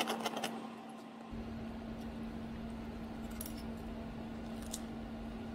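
Metal kitchen tongs clicking and clinking a few times at the start, then quiet room tone with a faint steady hum.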